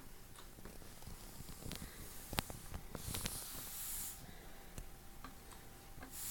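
A cat hissing: one short hiss about three seconds in, among faint scattered clicks and taps.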